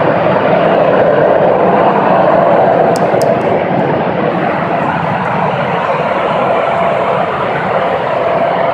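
A loud, steady droning rumble with a faint hum held at one pitch running through it, a strange noise that the recorder could not identify.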